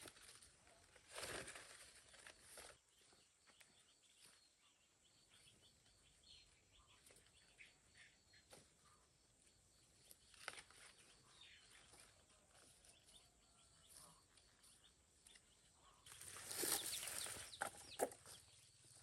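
Quiet farmyard with chickens making faint scattered sounds, and a louder burst of rustling near the end.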